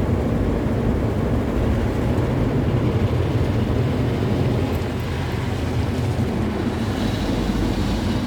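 Car wash heard from inside the car: a steady low rumble with a hiss that grows louder about seven seconds in.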